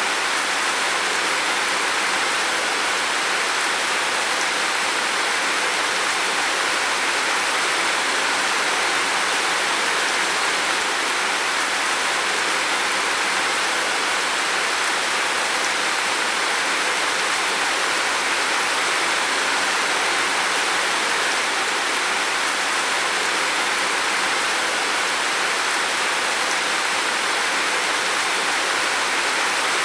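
Heavy rain falling steadily on a roof, a constant dense hiss of drops with no let-up.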